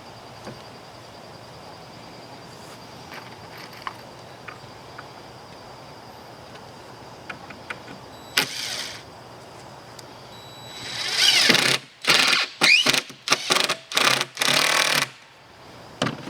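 Power drill driving a screw into wood: a short run about halfway through, then a series of about six quick trigger pulls near the end, the motor whine rising each time it spins up.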